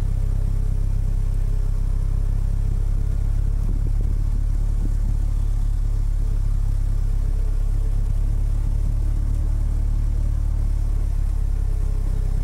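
Engine of an open-cockpit roadster running steadily while the car drives slowly, heard from the open cockpit as a constant low rumble.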